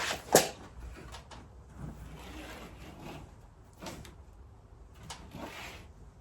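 Work materials being handled and shifted to clear space: a sharp knock about half a second in, then scattered lighter knocks and scraping as pieces are slid and set down.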